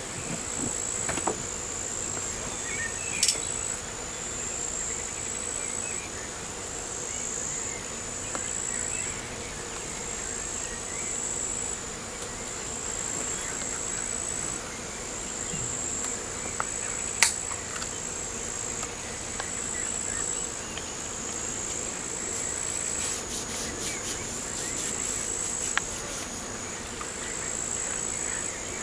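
Outdoor insect chorus: a steady high-pitched trill that pulses in stretches of about a second, with two sharp clicks, about three seconds and seventeen seconds in.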